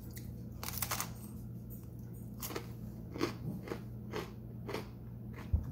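A crisp baked-cheese tostada topped with chicken and guacamole being bitten and chewed close to the microphone: a run of irregular crunches.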